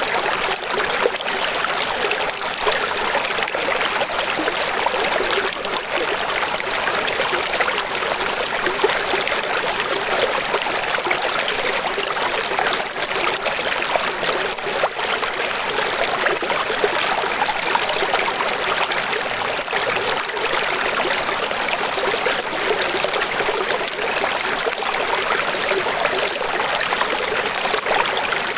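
Steady rushing, splashing running water, an even hiss with fine spattering detail and little low rumble.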